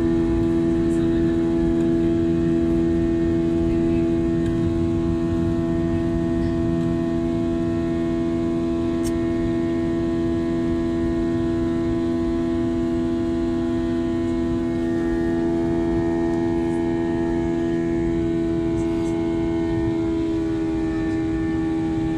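Airbus A321 jet engines heard inside the cabin during the climb: a steady drone with a low rumble and a hum of several fixed tones. About two-thirds of the way through, a few higher tones join in.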